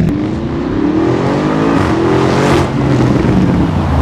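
Lamborghini Urus's twin-turbo V8 accelerating, its note climbing steadily in pitch for about two and a half seconds, then dropping and running on at a steadier, lower note.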